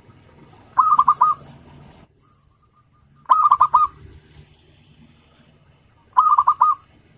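Zebra dove (perkutut) singing: three short phrases of quick staccato coos, each about half a second long and spaced roughly three seconds apart.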